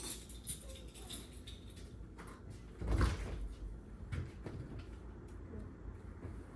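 Household handling noises: a few light clicks and knocks, with one dull thump about three seconds in and a smaller knock about a second later.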